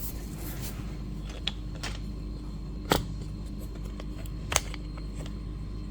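A few sharp clicks and knocks as packaging and boxes are handled and moved on a table, the loudest about three seconds in, over a steady low hum.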